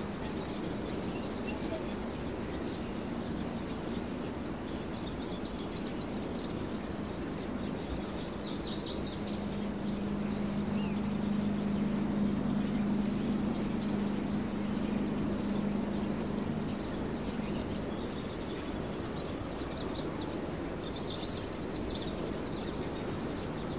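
Small birds chirping and trilling in several short bouts over steady outdoor background noise, with a faint low hum through the middle stretch.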